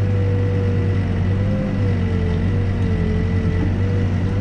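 New Holland B95 backhoe loader's diesel engine running steadily under work, heard from the operator's seat, with a steady low hum and a whine that wavers slightly in pitch.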